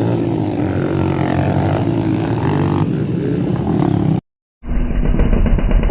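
Motocross bike engine running, its pitch wavering slightly, cutting off suddenly about four seconds in. After a brief silence, background music starts.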